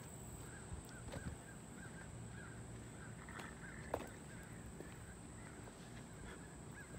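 A bird calling over and over in short chirps, several a second, faint, with a steady high-pitched whine underneath and a few sharp clicks, the loudest about four seconds in.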